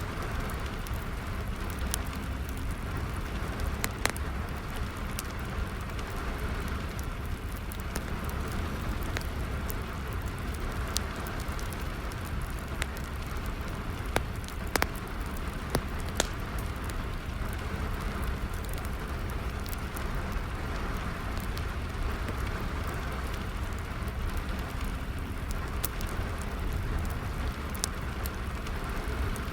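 Steady rain falling with a wood fire crackling over it, giving scattered sharp pops now and then.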